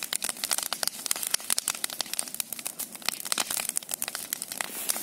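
Large bonfire crackling, with a dense, irregular run of sharp snaps and pops.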